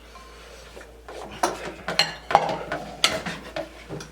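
Tableware clinking and knocking on a table: several sharp clicks of dishes and cutlery, starting about a second and a half in.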